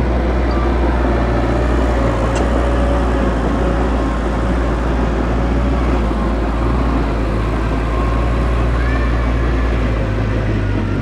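Heavy earthmoving machinery's diesel engine running steadily under work, a continuous low drone. Its low note shifts about a second before the end.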